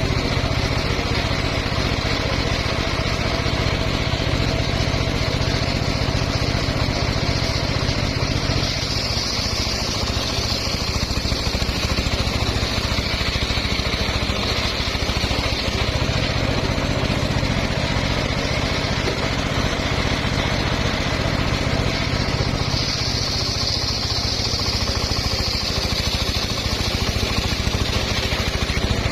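Engine of a homemade circular-saw sawmill running steadily under load, with a higher whine coming over it twice.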